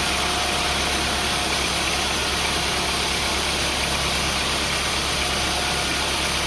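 An engine running steadily at idle, an even hum with a hiss over it and no change in speed.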